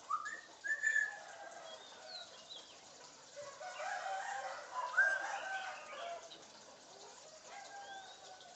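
African grey parrot calling: a string of short whistles and squawks that rise and fall in pitch, busiest about four to five and a half seconds in.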